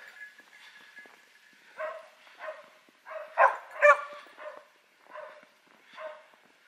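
A dog barking in a run of about seven short barks, the two loudest about halfway through. It is a hunting dog at a wild boar hunt.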